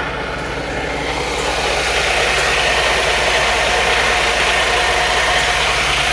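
Semi truck's diesel engine idling steadily, with a hissing layer that grows a little louder about two seconds in.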